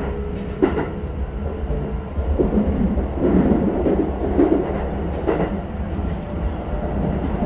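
Running sound inside a Keisei 3100-series electric train car: steady low rumble of wheels on rail with two sharp knocks, and a thin high whine from its Toyo hybrid SiC VVVF inverter that rises slightly in pitch.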